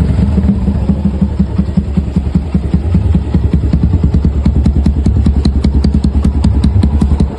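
Suzuki Gixxer 150's single-cylinder engine idling with a rapid, even knocking clatter: piston slap.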